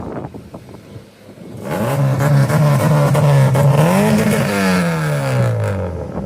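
Car engine revving loud as the car pulls away, its pitch climbing and then falling steadily over the last couple of seconds.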